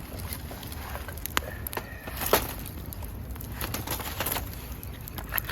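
Wood fire crackling, with scattered sharp pops over a low steady rush; the loudest pop comes a little past two seconds in.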